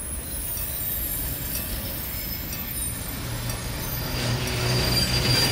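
Container flat wagons of a freight train rolling past, their wheels running on the rails with a steady rumble that grows louder near the end.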